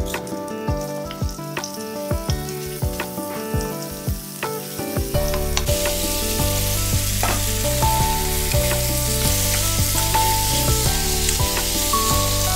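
Red rendang spice paste frying in oil in a wok, sizzling under background music. About halfway in, sliced jengkol beans go into the hot oil and the sizzle grows to a loud, dense hiss while they are stirred.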